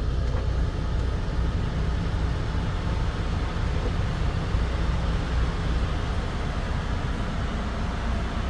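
Steady low rumble of a running truck, with even engine and road noise.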